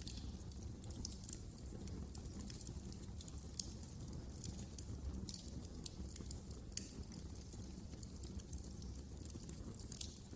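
Wood fire in a fireplace crackling: a steady stream of small sharp pops and snaps over a low rumble of flames, with one louder pop about two-thirds of the way through.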